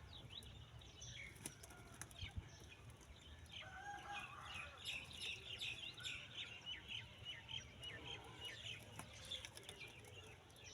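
Small birds chirping in quick runs of short falling notes, thickening about four seconds in, with wings fluttering and flicking water as they bathe.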